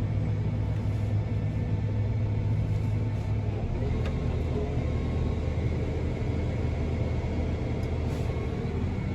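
A large diesel engine of farm machinery running steadily. Its note shifts slightly about four seconds in, and a steady whine joins it from then on.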